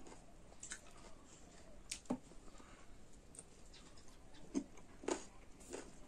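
Faint chewing and mouth clicks from a person eating wild olive (bastard oleaster) fruits, with a handful of separate sharp clicks spread through the seconds.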